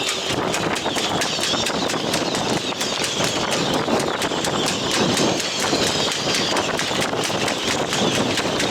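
Strong squall wind blowing through a marina, with rapid, irregular flapping and clattering, several knocks a second.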